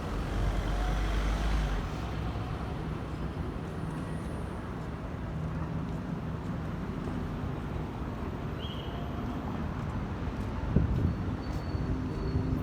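Steady city street traffic noise, with vehicle engines running and a low rumble in the first couple of seconds.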